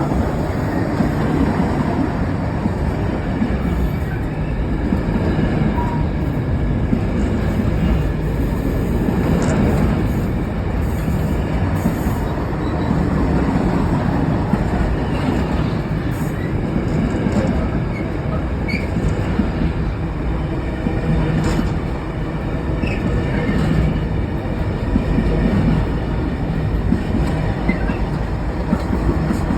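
Intermodal freight train rolling past: a steady rumble of wheels on the rails, with scattered clicks and a light wheel squeal.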